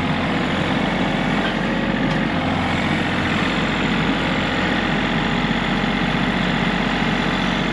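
A large engine idling steadily, with a deep, even rumble.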